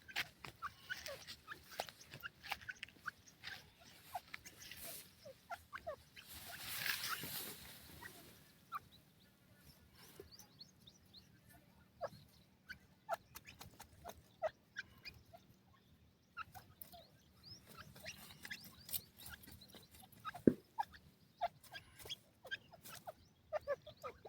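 Captive game birds, teetar and pheasants, giving soft, scattered short clucks and chirps, irregular and never settling into a rhythm. A brief rush of noise comes about seven seconds in, and a single sharp click a few seconds before the end.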